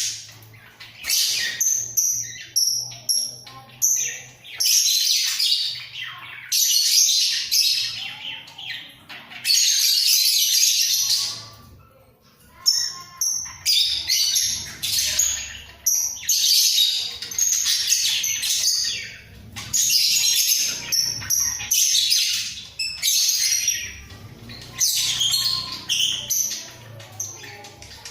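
A pair of budgerigars chattering and warbling in long runs of rapid twittering, broken by short pauses.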